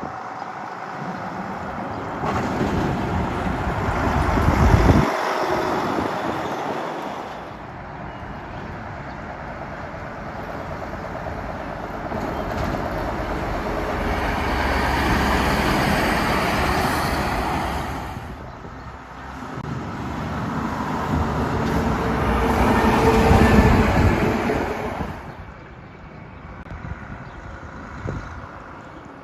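Heavy trucks driving past one after another, with engine and tyre noise swelling and fading three times.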